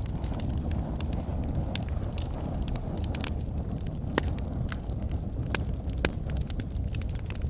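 Wood fire burning in a fireplace: a steady low rumble of flame with frequent sharp, irregular crackles and pops from the burning logs.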